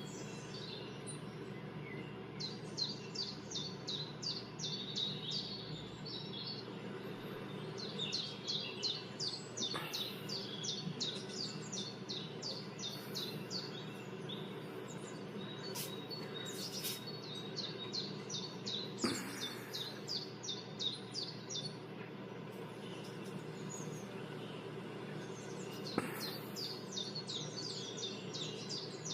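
Recorded birdsong played through a computer's speakers: runs of quick high chirps, about five a second, each run lasting a few seconds, over a steady low hum. A few sharp clicks stand out, the loudest about two-thirds of the way through and near the end.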